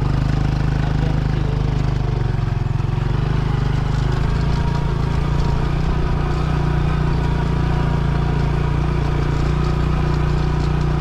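Motorcycle engine running steadily while riding, its pitch shifting slightly about three to four seconds in.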